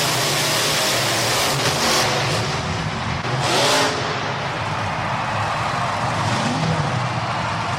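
Truck engine running, with a brief louder rev with rising pitch about three and a half seconds in.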